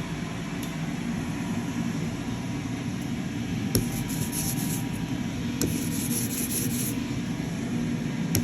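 Steady low rumbling hum, with two short bouts of dry, rapid rubbing or scraping strokes about four and six seconds in.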